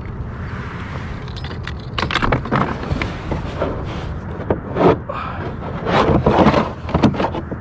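Irregular scrapes, knocks and rattles of a fish being handled and measured on a kayak, starting about two seconds in and loudest near the middle and toward the end, over a steady low rumble.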